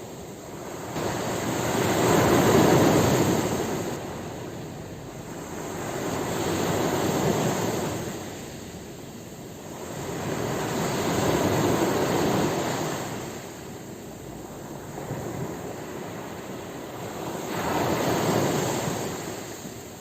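Ocean waves surging onto a shore: four slow swells of surf, one about every five seconds, each building and fading over a few seconds.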